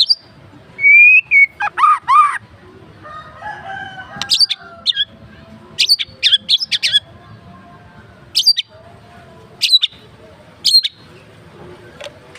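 White-rumped shama (murai batu) singing a varied song: clear whistled phrases and arched notes, then a series of sharp, high chips and short phrases spaced a second or two apart. This is the rich, mixed repertoire that Indonesian keepers call 'isian'.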